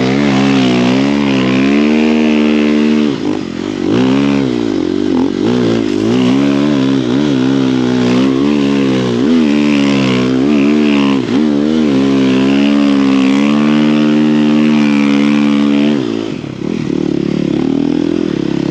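Snow bike's dirt-bike engine running hard at speed, held at a steady high pitch with a few quick dips where the revs drop and climb straight back, then easing off about three-quarters of the way through.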